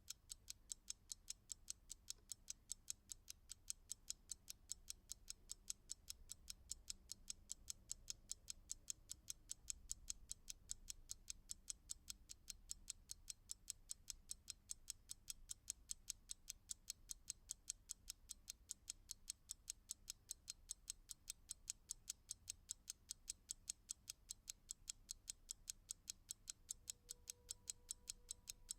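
Clock ticking: sharp, high, evenly spaced ticks, several a second, at a steady rhythm.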